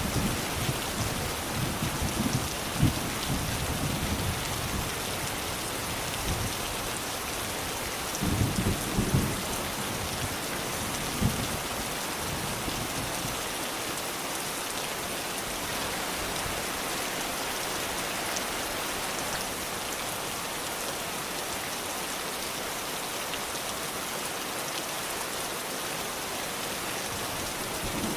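Steady rain falling, an even hiss, with low rolls of thunder rumbling in the first few seconds and again about a third of the way in, then rain alone.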